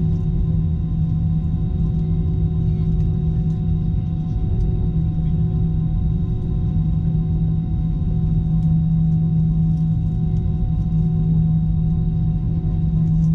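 Steady hum inside the cabin of an Airbus A321 holding on the ground before takeoff: a constant low droning tone with fainter higher tones over a low rumble, from the idling engines and the cabin air systems.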